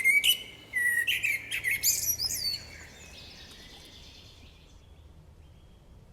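Common blackbird singing: a phrase of fluted whistles followed by thin, high twittering notes. It ends about two and a half seconds in, leaving a faint background hiss.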